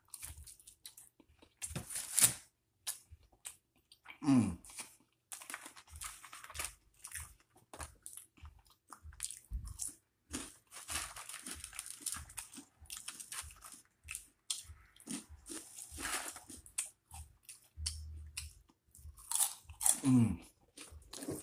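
Close-up chewing of crunchy corn snacks: a steady run of crisp crunches, about two a second, with a few louder bites.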